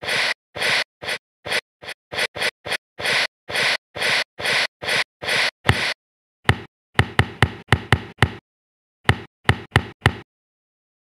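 A run of short knocks, about two or three a second, then a quicker cluster of sharper clicks and a few last knocks, stopping about ten seconds in.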